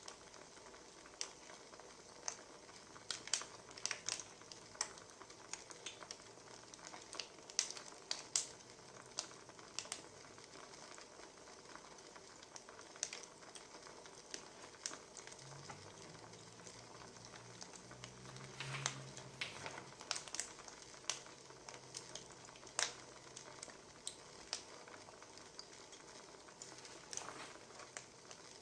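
Wood fire crackling, with irregular sharp pops and snaps over a soft steady hiss. A faint low hum comes in for several seconds in the middle.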